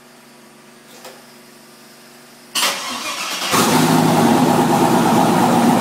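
Faint steady hum, then about two and a half seconds in the starter cranks the twin-turbo 5.3-litre LS V8 for about a second until it fires and catches, running loudly and steadily at idle on E85 at its first startup.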